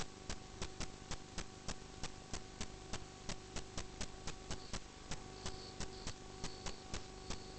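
Regular mechanical clicking, about three clicks a second, evenly spaced, over a steady electrical hum.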